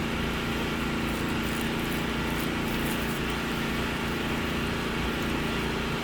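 A small engine running steadily at an even speed, a constant hum with no change in pitch.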